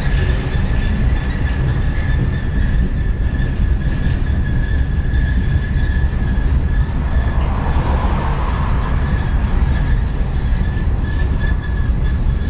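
Freight train cars rolling past close by: a deep steady rumble with a thin high-pitched wheel squeal held throughout, and sharp clicks of the wheels near the end.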